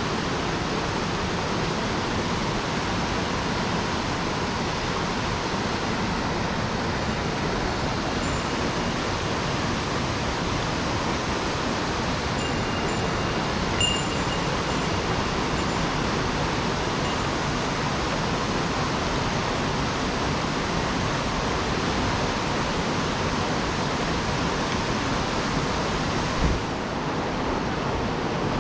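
Rain-swollen mountain stream rushing steadily, a constant hiss of fast water. There is a short knock near the end, after which the sound is a little duller.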